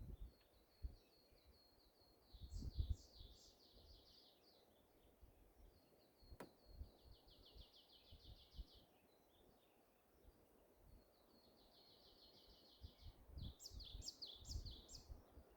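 Faint songbird song: several runs of rapid, evenly repeated high notes, with low gusts of wind rumbling on the microphone now and then and a single sharp click in the middle.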